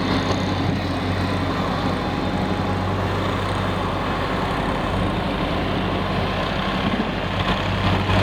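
Snow-plow pickup truck's engine running steadily with a low hum.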